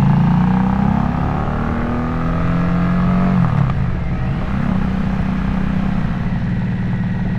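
Harley-Davidson Nightster's V-twin through a Jekill & Hyde valved exhaust, pulling under acceleration with rising pitch. About three and a half seconds in the revs drop briefly for a gear change, then it settles into a steady cruise.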